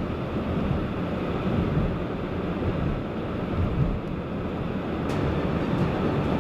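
Steady rumble of a car driving on a snowy highway, heard from inside the cabin, with wind noise from the storm.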